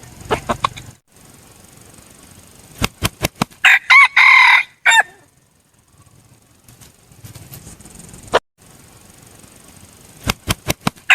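Red junglefowl rooster beating its wings in a quick run of claps, then crowing once. Another run of wing claps starts near the end.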